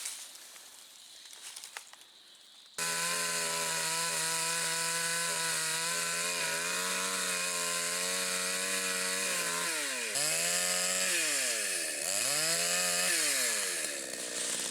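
Two-stroke chainsaw running at high revs, coming in suddenly about three seconds in. Near the end its pitch sags and recovers twice as the chain bites into the wood. The chain is dull enough that the saw is short of cutting power.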